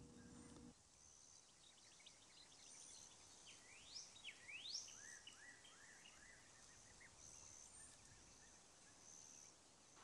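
Faint birdsong over quiet outdoor ambience: a couple of quick rising whistles about three and a half seconds in, then a run of short rising notes.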